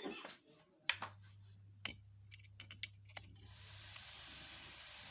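Sharp clicks as a screwdriver bridges the terminals of a National quarter-horsepower refrigerator compressor that has no starting relay, then the compressor starting with a steady low hum about a second in. From about three and a half seconds a steady hiss sets in as it runs.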